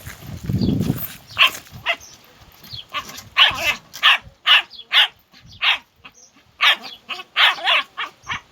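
A dog barking repeatedly in short barks that come in quick runs, starting about a second and a half in. A low rumble comes in the first second.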